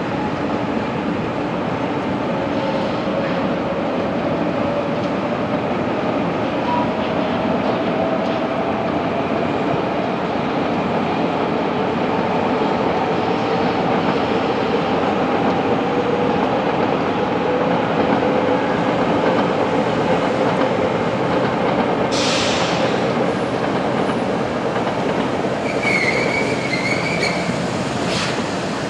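Shinkansen bullet train running along the platform with a steady rumble and a whine that slowly falls in pitch as it slows. About two-thirds of the way through comes a short hiss, and near the end a brief high squeal.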